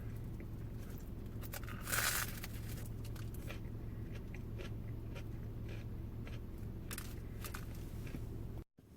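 A person biting and chewing a banh mi sandwich, with a louder crunch of the bread about two seconds in and small crackling chewing noises after it, over a low steady hum.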